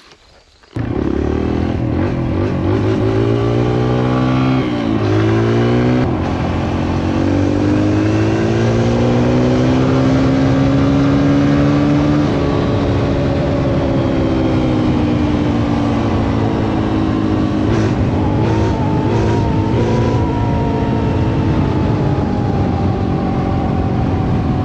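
Kawasaki KLX140L's single-cylinder four-stroke engine under way, cutting in suddenly about a second in. Its pitch rises and falls with the throttle, with a few abrupt shifts that sound like gear changes.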